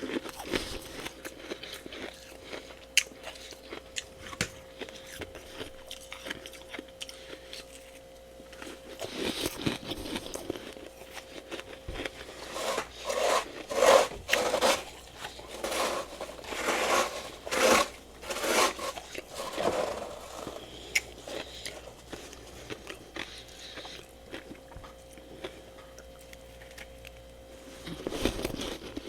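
Crunching and chewing of soft freezer frost (humidifier freezer frost) being bitten and eaten, in a dense run of crunchy bites from about a third of the way in until past the middle, with only scattered small clicks before that. A steady background hum runs underneath.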